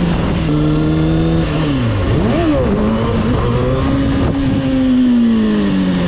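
Motorcycle engine running under way, its pitch rising and falling with the throttle, with a sharp drop and recovery about two seconds in, over a steady low rumble.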